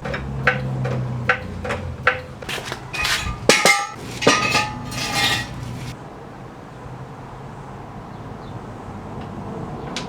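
Metal clicking and clanking of a car being jacked up: a floor jack pumped in regular strokes, then louder ringing clanks of steel axle stands being set in place. It goes quieter after about six seconds.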